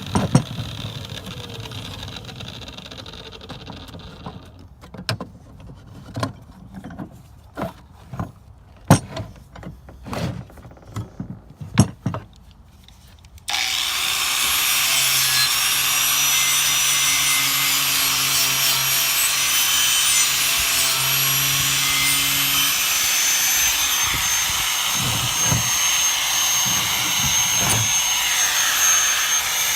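A handheld power tool winds down, followed by a string of sharp knocks and taps. About thirteen seconds in, the tool starts abruptly and runs steadily at high speed with a high whine, stripping rust from a sickle blade.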